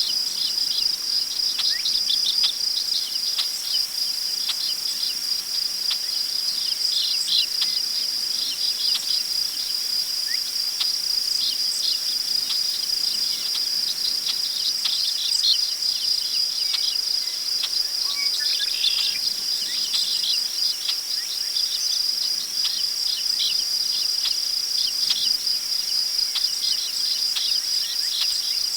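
Crickets chirping in a steady, continuous high trill, with scattered short bird chirps over it.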